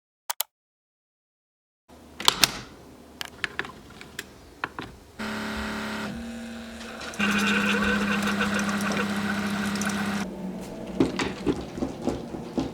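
A small electric appliance motor hums briefly, then runs louder and steadily for about three seconds before it stops. Scattered clicks and knocks come before and after it.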